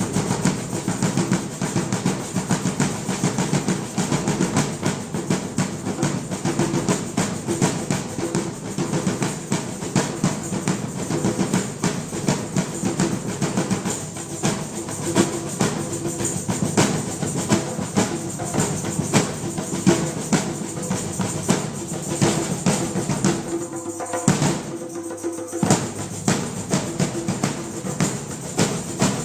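Drum ensemble playing fast, dense drumming with rapid strikes and rolls, thinning out for a moment near the end before carrying on.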